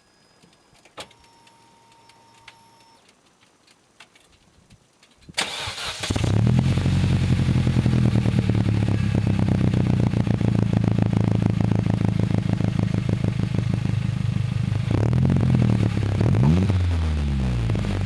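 Opel Astra 2.0 Turbo's Z20LET four-cylinder engine, fitted with a 2.5-inch exhaust and an RM Motors RM9 sport rear muffler. It is quiet at first, then about five seconds in it cranks briefly and starts, settling into a steady idle. Near the end it is blipped a few times, its pitch rising and falling.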